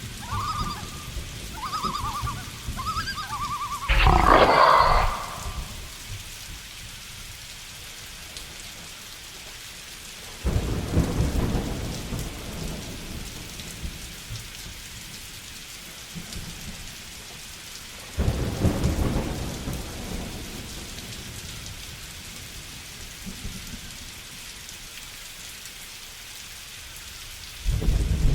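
Steady rain with thunder that rumbles in three times, each roll starting suddenly and fading over a few seconds. In the first few seconds an animal calls several times in short repeated notes, then comes a louder, harsher burst about four seconds in.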